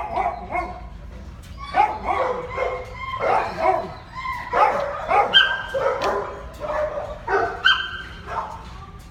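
Dogs barking and yipping again and again, some calls short and high-pitched.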